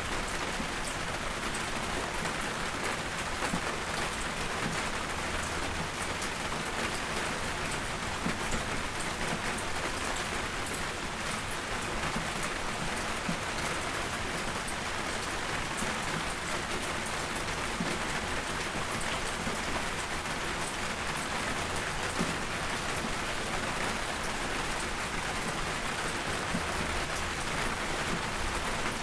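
Steady soft rainfall with the scattered sharp crackles and pops of a wood fire burning in a fireplace.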